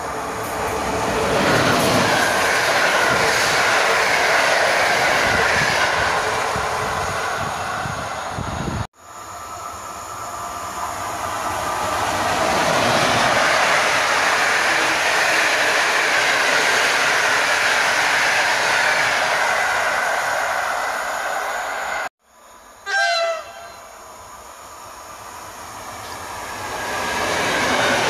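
Electric passenger trains running past at speed: a locomotive-hauled train rumbles by with wheels clattering over the rails, and the sound breaks off abruptly twice. About three-quarters of the way through a train horn sounds briefly, falling slightly in pitch. Near the end an EN57 electric multiple unit swells into a loud run past.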